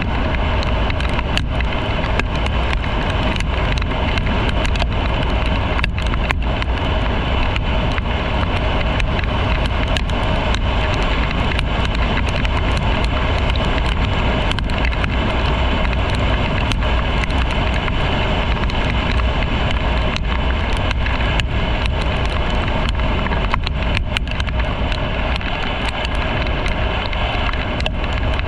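Motorcycle on the move at a steady pace: engine running under a heavy rush of wind and road noise, with many faint clicks.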